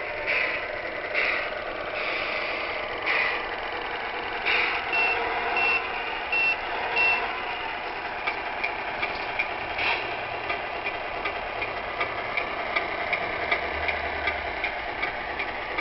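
Electronic sound unit of a Tamiya 1/14 Scania R620 RC truck: a synthesized truck engine running, with short hisses early on, four short high reversing beeps about five seconds in, then a steady rapid ticking of about three a second.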